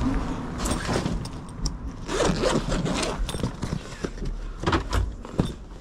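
A zipper being pulled, in several short runs of strokes.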